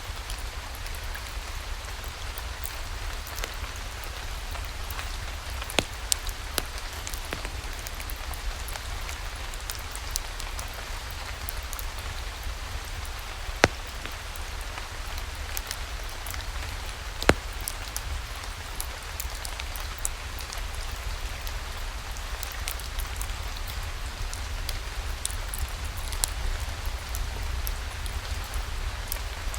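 Steady rain falling, with a few sharp pops standing out now and then.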